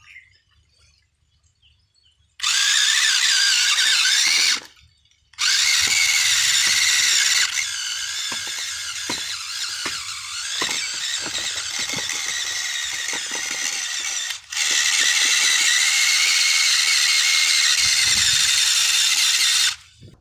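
Small electric motor and plastic gearbox of a remote-control toy tractor whining at high pitch in three runs: a short burst about two seconds in, a long run that eases a little partway, and another long run that stops just before the end.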